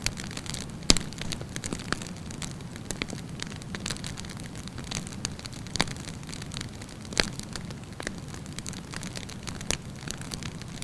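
Wood campfire burning with a steady low rush and frequent sharp crackles and pops, the loudest pop about a second in.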